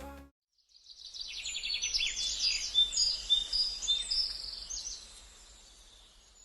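A songbird singing a run of rapid high chirps and trills over faint outdoor background noise, fading away towards the end.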